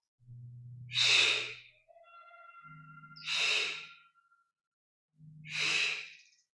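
Three sharp, forceful exhales, about one every two seconds, paced with repeated curl-ups in a Pilates ab exercise.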